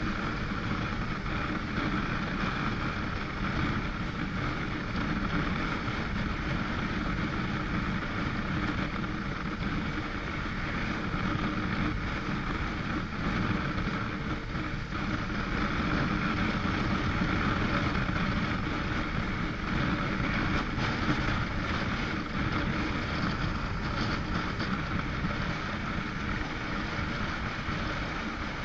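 Motorcycle engine running steadily while riding along, with the rush of wind and road noise over it.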